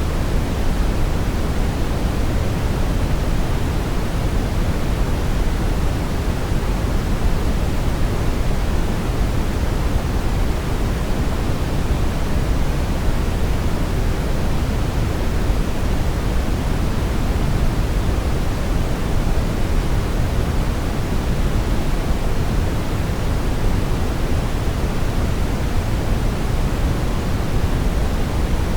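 Brown noise: a steady, even rushing hiss, heaviest in the low end and thinning out toward the top, with no change or rhythm.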